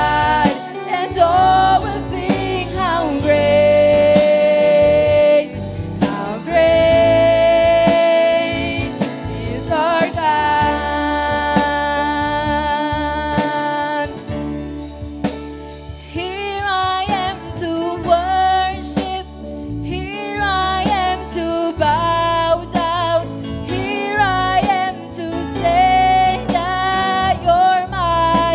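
Worship music: sung melody with long held notes over a band accompaniment.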